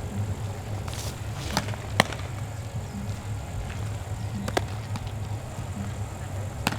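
Baseball practice field ambience: a steady low rumble with several sharp cracks and pops, the loudest about two seconds in, like balls smacking into gloves or off bats.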